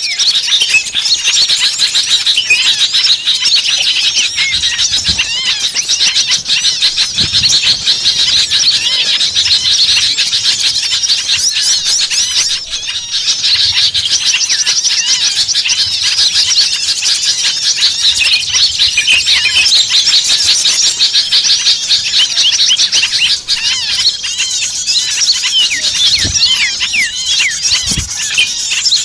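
A dense chorus of many small birds chirping and trilling at once, a continuous agitated commotion of high-pitched calls. This is a bird-lure recording of noisy small birds, played to draw other small birds in.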